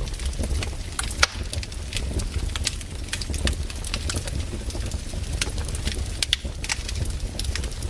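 Wood campfire crackling, with many irregular sharp pops and snaps over a low steady rumble; the loudest snap comes about a second in.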